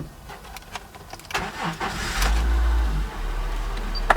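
A 2002 Honda Civic EX's 1.7-litre four-cylinder engine being cranked and starting: it catches about two seconds in with a brief flare of revs, then settles to a steady idle. A single sharp click near the end.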